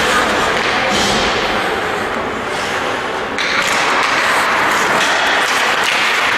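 Steady din of a game in an indoor sports hall, with scattered thumps and taps of play; the hiss of the noise grows brighter about three and a half seconds in.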